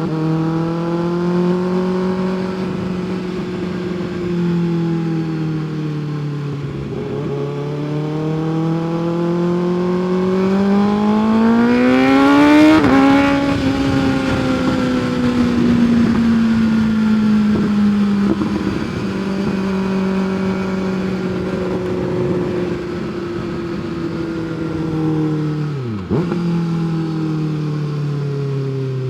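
Kawasaki 636 sport bike's inline-four engine under way: the revs climb smoothly for several seconds about midway, then ease off and fall slowly, with a brief sharp dip near the end.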